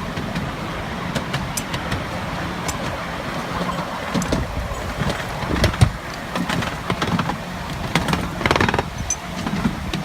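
Miniature railway train running, with a steady rumble and irregular clicks and knocks.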